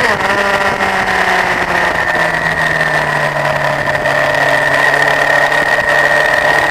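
Honda CBF1000 inline-four motorcycle engine running on track, its note dropping in pitch over the first two seconds and then holding steady, with wind noise.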